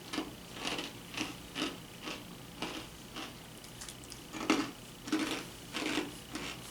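Crunchy toasted cracker rounds being chewed, a string of short irregular crunches about one or two a second.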